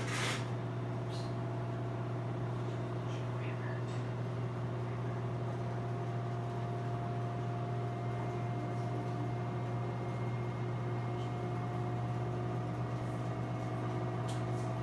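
Whirlpool front-load washer running with a steady low hum and a faint, higher steady whine: the noise it makes in its spin and drain cycle.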